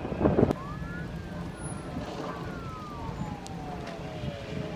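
Emergency-vehicle siren wailing over a steady low vehicle rumble. Its pitch rises quickly about half a second in, falls slowly for about four seconds, then starts rising again at the end. A short louder burst fills the first half second.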